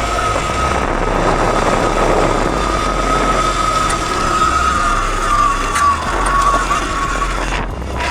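Dirt bike engine running while being ridden, with wind buffeting the microphone; a steady high whine sinks slightly in pitch, and the sound cuts out briefly near the end.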